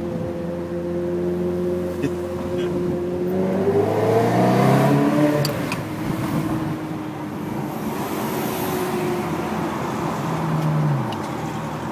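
Ferrari 360 Modena's 3.6-litre V8 heard from inside the cabin: running at low revs, then rising in pitch and getting louder as it accelerates about four seconds in, dropping back and holding steady, and falling in pitch again near the end.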